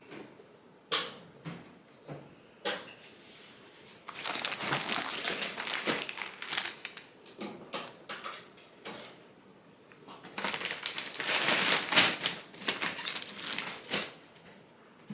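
Packaging or shopping bags being handled: a few sharp knocks in the first three seconds, then two long spells of rustling and crinkling, the louder one near the end.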